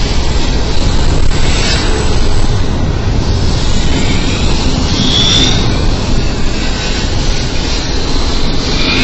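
Double-stacked intermodal freight cars rolling past close by: a loud, steady rumble of steel wheels on rail, with brief high squeals from the wheels about two seconds in, near the middle, and again at the end.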